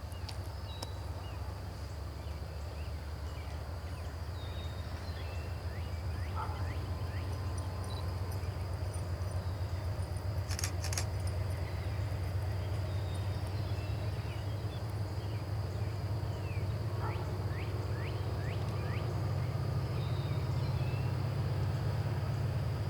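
Low rumble of approaching diesel-electric locomotives, a GE AC44C6M and an EMD SD70ACe, growing slowly louder, with birds chirping over it.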